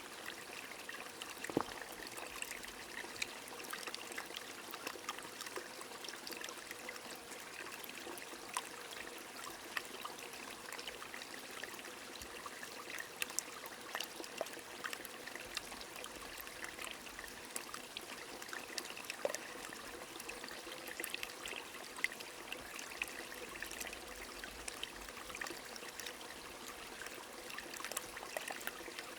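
A small stream flowing steadily while rain falls, with scattered drops ticking throughout.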